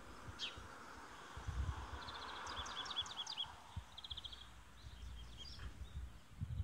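Small birds chirping: a quick down-sweeping call about half a second in, then a run of short, rapidly repeated high chirps from about two to three and a half seconds, over a steady background hiss. A few low rumbles sound on the microphone, the strongest about a second and a half in.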